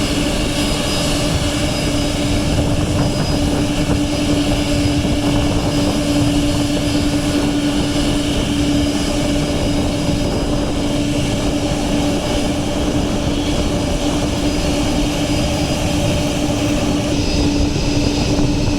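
Boeing 747-400 Dreamlifter's four turbofan engines running at taxi power: a steady, even drone with a constant low tone that does not rise or fall.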